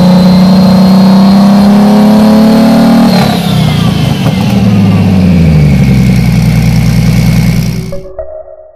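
Ford 3.5 EcoBoost twin-turbo V6 held at high revs for about three seconds, then let off. A high whistle slides down as the revs fall back to a steady, lower speed. The sound fades out near the end.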